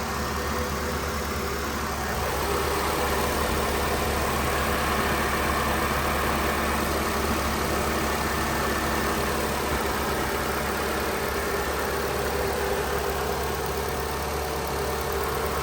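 A 2019 Nissan Sentra's 1.8-litre four-cylinder engine idling steadily, slightly louder from about two seconds in.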